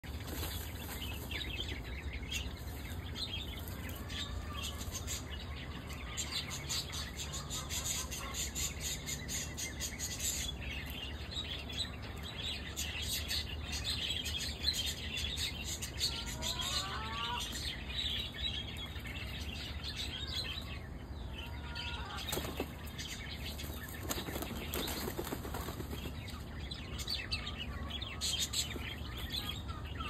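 Outdoor bird calls over a steady high background: scattered chirps, with a short run of calls about sixteen seconds in and another a few seconds later.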